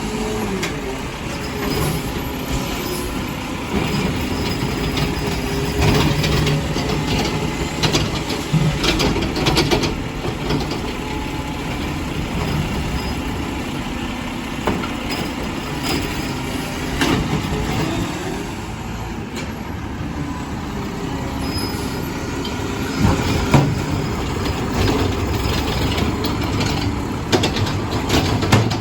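Garbage truck's diesel engine running steadily, with scattered clanks and knocks through it.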